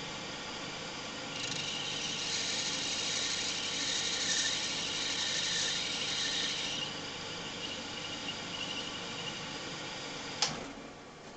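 Small lathe running while a cutting tool turns a brass rod; from about a second in, the cut gives a high-pitched squeal lasting about five seconds, which is typical of brass under cutting whether it is lubricated or not. A sharp click near the end, after which the sound drops.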